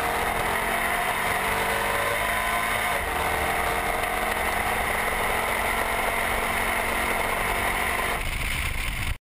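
Supercharged LQ4 6.0-litre V8 of a Chevrolet Silverado Z71 pickup running at a fairly steady engine speed, its note drifting only slightly, then cutting off suddenly near the end.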